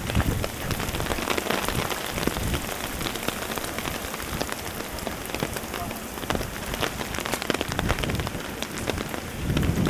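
Heavy rain falling steadily, with many close, separate drop hits pattering over a dense hiss. A low rumble swells in near the end.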